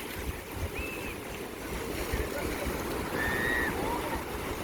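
Seaside ambience: a steady wash of surf with rumbling wind on the microphone, and a few faint short high-pitched calls about a second in and again after three seconds.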